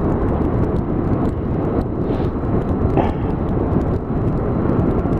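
Motorcycle riding at road speed, heard from the rider's helmet microphone: a steady rush of wind noise with the bike's engine running underneath, most likely his 5th-generation Honda VFR800's V4.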